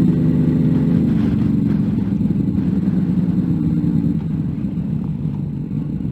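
Car engine running at low revs during a slow left turn, heard from inside the cabin; the engine note eases a little about four seconds in.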